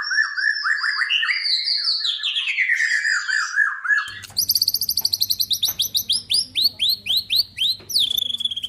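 White-rumped shama singing: fast runs of repeated down-slurred whistled notes. About four seconds in, the sound cuts to a different, higher-pitched run of rapid notes with a low steady hum beneath it.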